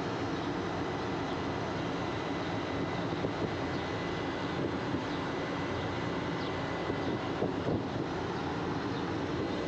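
A machine running steadily, with a faint constant high tone and a few light clicks.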